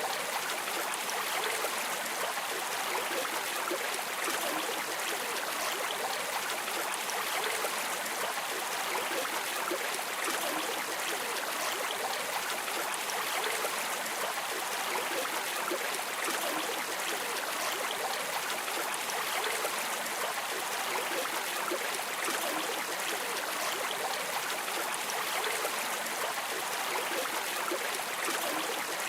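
Flowing river water, a steady, even rush of stream sound that does not change.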